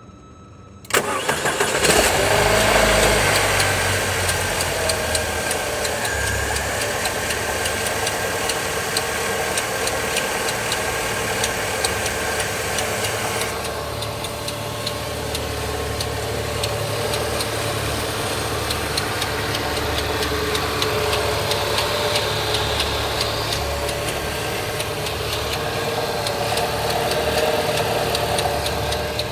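Opel Vectra GTS's Z20NET 2.0-litre turbo four-cylinder engine starting about a second in, then idling, first higher and settling lower within a few seconds, with an irregular ticking throughout. The ticking comes from a failing secondary timing-chain tensioner, a sign that the chains, guides and tensioners need replacing.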